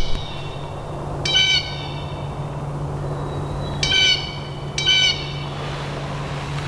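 A bird calling loudly nearby, its short calls repeated three times after the tail of one at the start, which the hunter finds annoying. A low steady hum runs underneath.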